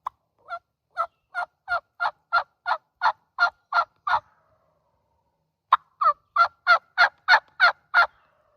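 Turkey yelping: two evenly paced runs of yelps, about three a second. About a dozen come first, then a pause of more than a second, then about eight more, louder.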